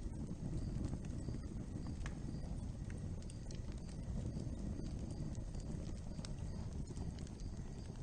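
Real wood fire burning: a steady low rumble of flames with scattered sharp crackles and pops from the burning wood.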